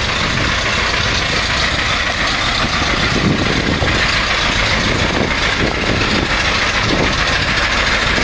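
A vehicle engine running steadily under a constant rushing noise, with no clear changes in pitch.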